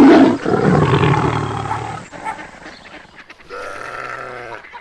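A loud, rough animal roar that cuts off about two seconds in, followed near the end by a quieter, steadier animal call.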